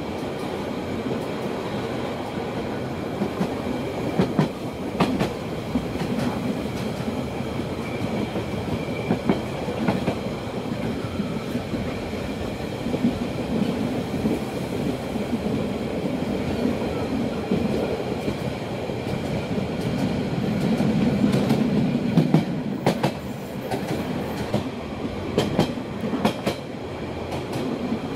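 Rhaetian Railway metre-gauge passenger train running along the track, heard from an open-sided carriage: a steady rumble of wheels on rails with scattered sharp clicks from the rail joints, more of them near the end.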